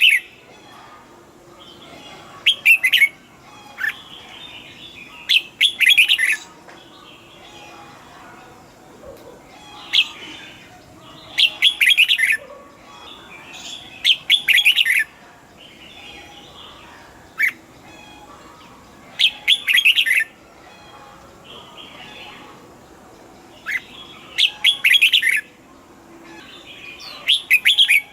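Red-whiskered bulbul singing short, loud whistled phrases, one every two to three seconds.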